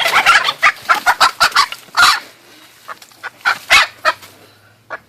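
Hen squawking: a rapid run of loud, harsh calls for about two seconds, then a few more about three and a half seconds in.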